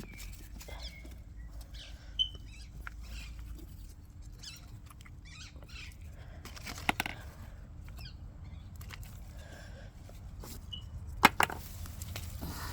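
Rustling and scraping of potato plants and soil being handled and pulled up by hand, with a few short sharp knocks, the loudest a quick double knock near the end.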